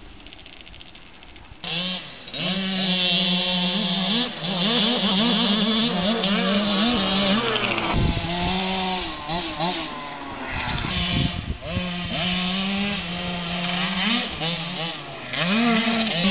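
Polini X3 mini motocross bikes' small two-stroke engines riding, revving high with the pitch climbing and dropping again and again as the throttle opens and closes. A quieter stretch comes first, and the engine sound comes in about two seconds in.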